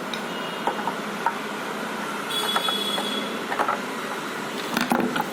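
Scattered clicks and knocks of hands handling an opened UPS case and its battery, over a steady background noise, with a brief high squeak about halfway through.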